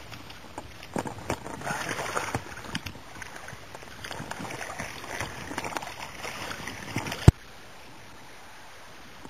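Irregular splashing and rustling of water, with many small clicks, cut off by one sharp loud click about seven seconds in, after which only a steady faint hiss remains.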